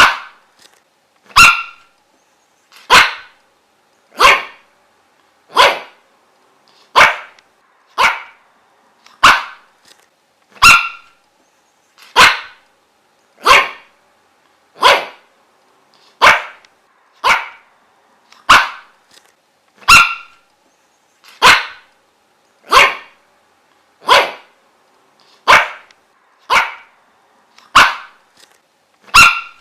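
A dog barking over and over: single short barks at an even pace, about one every second and a half.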